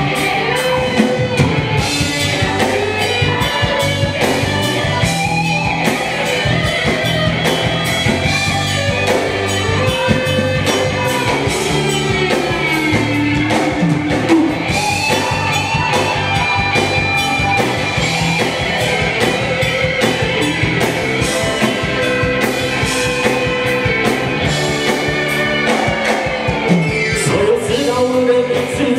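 Live band playing an instrumental passage of a rock-pop song, with a steady beat and a gliding lead melody line.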